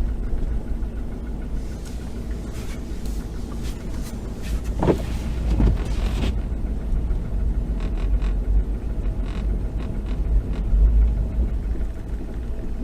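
A 2011 Ford F-150 driving through a low-speed turn, with a steady low rumble and a ratcheting chatter from the 9.75-inch limited-slip (traction-lock) rear axle. The chatter is the sign of worn limited-slip clutch packs. A couple of short squeaks come about five seconds in.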